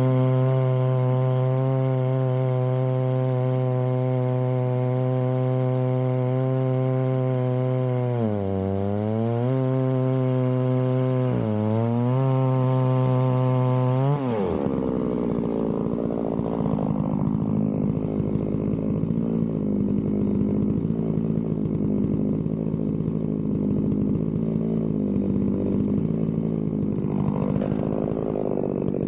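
Two-stroke chainsaw running at a steady high speed, its pitch dipping and recovering twice. About halfway through it changes suddenly to a lower, rougher running note.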